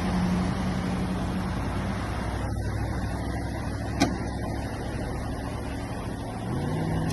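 A motor vehicle running with steady road noise: an engine drone that fades after about two seconds, a single sharp click about four seconds in, and an engine note that climbs again near the end.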